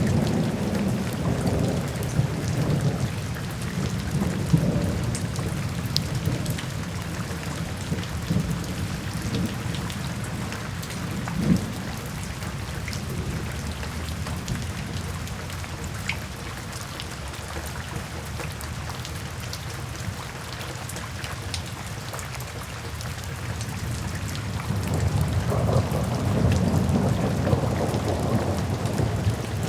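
Steady rain with scattered drop ticks, under a low thunder rumble that fades through the middle and swells again near the end.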